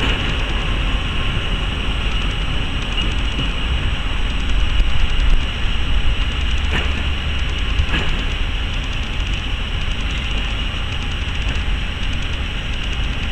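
Train of passenger coaches rolling away on the rails: a steady rumble with a few sharp clicks from the wheels.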